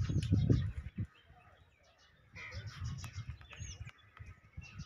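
Birds chirping and calling in short bursts, with a few sliding high calls, starting about two seconds in. A loud low rumble fills the first second.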